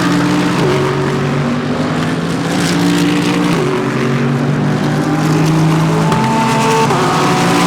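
GT3 race cars running at racing speed, several engines overlapping, their notes stepping in pitch several times with gear changes.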